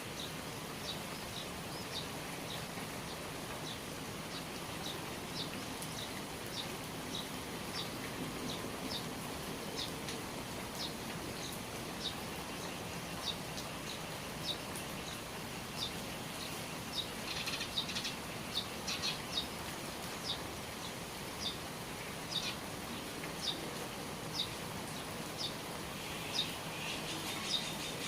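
Steady rain falling, with a small bird repeating a short, high chirp about twice a second; the chirps come thicker around the middle and again near the end.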